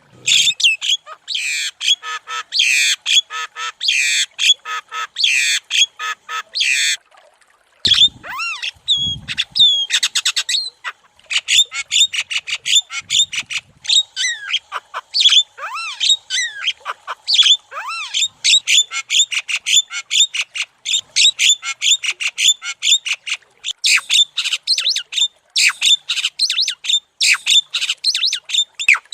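Javan myna (jalak kebo) singing a fast, chattering song of rapid sharp notes, squawks and short falling whistles, with a brief pause about seven seconds in.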